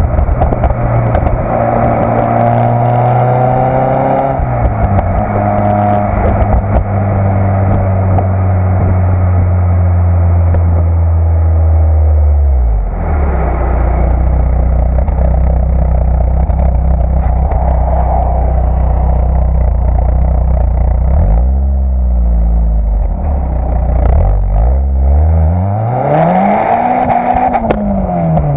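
Citroën Saxo VTS 1.6 16v four-cylinder engine running through its stock exhaust. The engine note holds steady for stretches and falls in steps about 4 and 13 seconds in. Near the end the revs rise and fall back once.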